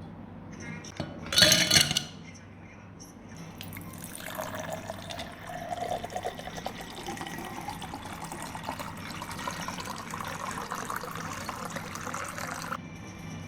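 A brief loud clatter about a second in. Then liquid is poured steadily into a container for about nine seconds, its pitch rising as the vessel fills, and it stops suddenly near the end.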